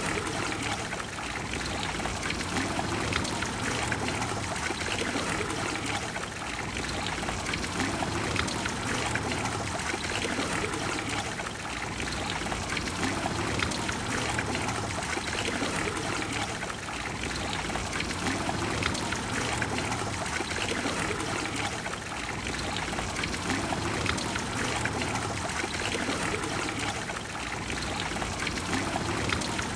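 Water of the Trevi Fountain pouring and splashing into its basin: a steady rush of falling water, easing slightly about every five seconds.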